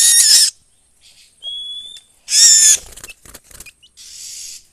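Oriental magpie-robin (kacer) calling: two loud, harsh rasping calls, one at the start and one about two seconds in, with a clear rising whistle between them and a softer hissing call near the end.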